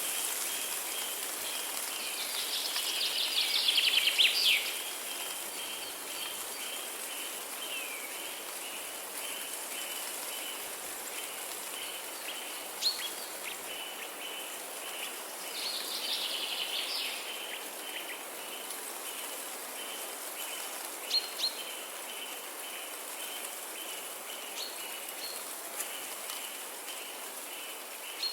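Birds singing over a steady hiss of outdoor ambience, with two brighter bursts of song about three seconds in and again about halfway, and a few short sharp chirps in between.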